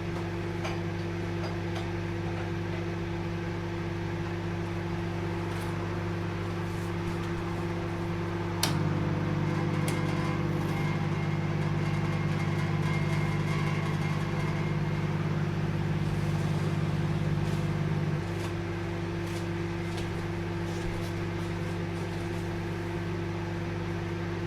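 Microwave oven running with a steady hum. About a third of the way in there is a click, and the hum turns louder and buzzier for about ten seconds before it drops back to the quieter hum.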